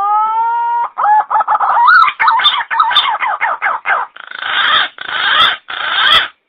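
Pink-necked green pigeon (punai gading) call played as a bird lure: a rising whistled note, then a quick run of short wavering notes, ending in three rough, hissing bursts.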